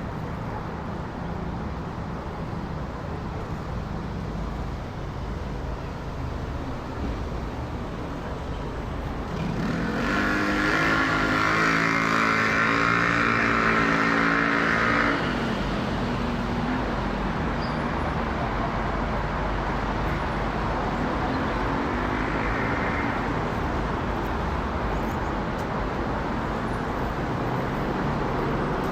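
Airbus A380 airliner's jet engines rumbling steadily overhead. It gets louder from about ten to fifteen seconds in, with a higher hissing whine on top, then drops back to a steady rumble.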